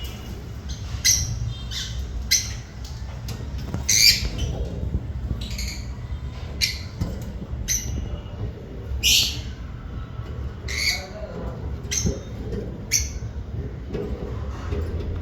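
African lovebirds giving short, high-pitched squawking calls, about a dozen spaced irregularly.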